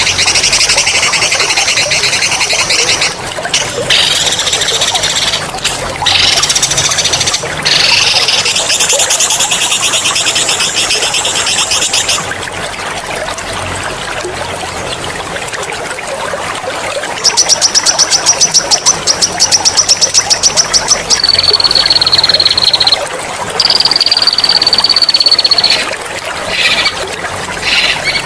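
Songbirds singing long, loud rolling trills in several bouts over trickling water. About halfway through comes a fast, evenly pulsed trill, followed by two long, steady high whistles that fall slightly in pitch.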